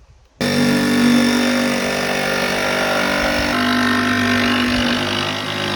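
A loud, steady machine or engine drone that starts suddenly, shifts slightly in pitch about three seconds in, and cuts off abruptly.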